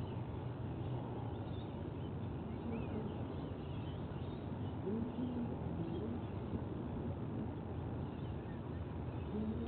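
Steady low outdoor background rumble on a nest-cam microphone, with a few faint short bird calls about halfway through and again near the end.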